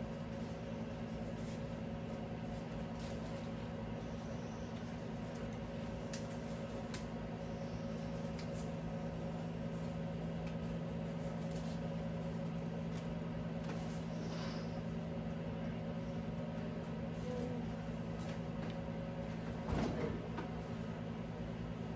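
Light clicks and knocks from refrigerator parts being handled during cleaning, with one louder knock near the end, over a steady low hum.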